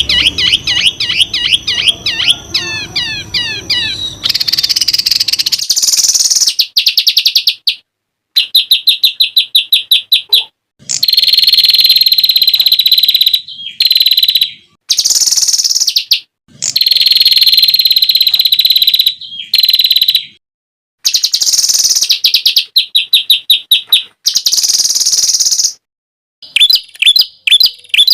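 Songbirds singing a string of rapid, piercing 'tembakan' phrases: fast trills and chattering runs of repeated high notes. They come in separate blocks of one to four seconds, cut off abruptly by short silences, as in an edited masteran compilation.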